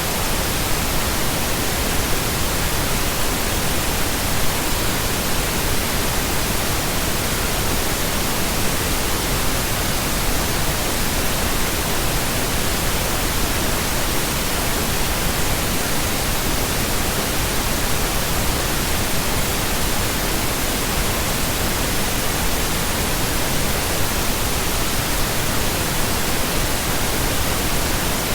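Steady synthetic pink noise: an even, unchanging hiss spread across the whole range, with nothing else in it.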